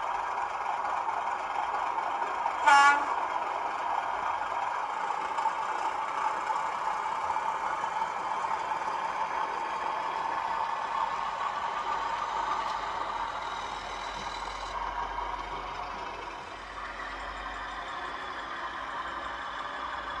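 Hornby Class 31 model diesel's DCC sound playing a diesel engine running, with one short horn toot about three seconds in. The engine sound drops slightly in level about sixteen seconds in.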